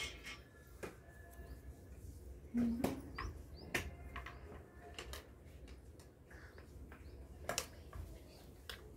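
Faint bird chirps in the background of a quiet room, with scattered soft clicks and taps and one louder short knock about three seconds in.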